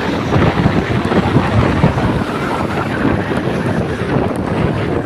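Strong wind buffeting the microphone: a loud, steady rush of noise with no pause.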